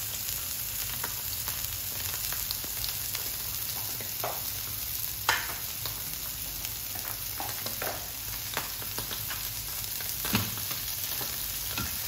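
Smashed beef patties frying on a flat griddle pan and sliced mushrooms frying in oil in a small pan: a steady sizzle, with a few light knocks, the sharpest about five seconds in.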